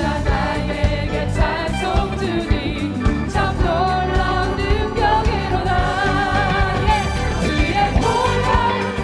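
Christian praise song sung by a choir or congregation with a full band: sustained, wavering sung lines over steady bass and regular drum strikes.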